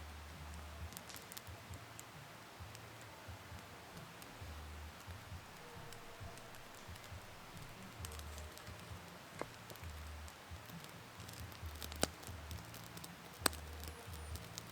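Faint scattered ticking and rustling, with two sharper clicks near the end and a low rumble that comes and goes underneath.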